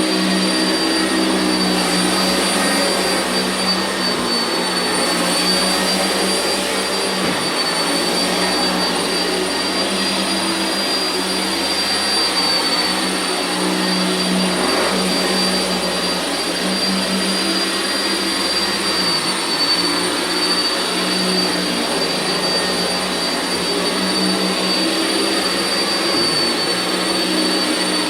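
Sanitaire SC679J upright vacuum cleaner running steadily across carpet, a rush of air with a steady high-pitched motor whine.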